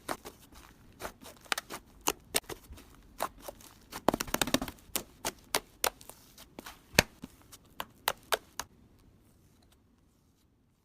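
Irregular sharp clicks and taps, with a quick rattle of them about four seconds in; they stop near the end.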